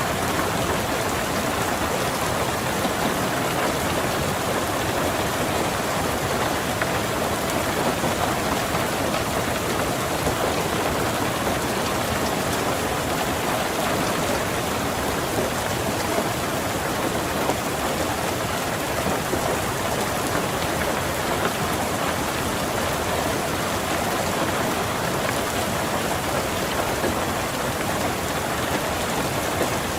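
Steady rain falling on a car's roof and windows, heard from inside the car, with no breaks or thunder claps.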